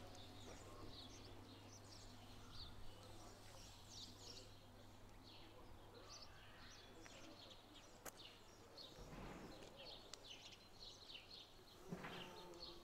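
Faint chirping of small birds, many short high calls throughout, over a low steady hum.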